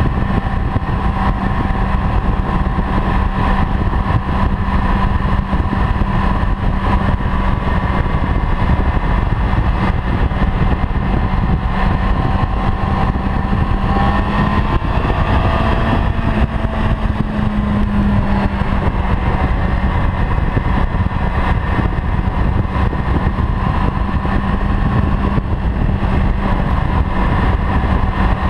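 Honda CB-1's 399 cc inline-four engine running at a steady cruise, heard with a heavy rush of wind over the helmet-height camera microphone. About halfway through, the engine note shifts briefly, then settles again.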